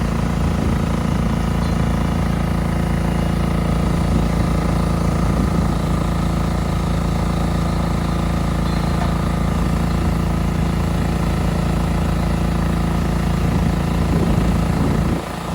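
Engine of a water machine used for dust suppression on a demolition site, running at a steady speed with an even drone, loud and noisy. The level dips briefly near the end.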